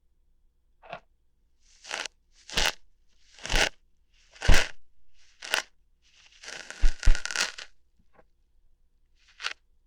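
Close-miked ASMR ear-hair plucking sounds: a string of short crackling rips, about ten of them, one to two seconds apart, with a longer rustling, crackling stretch about two-thirds of the way through.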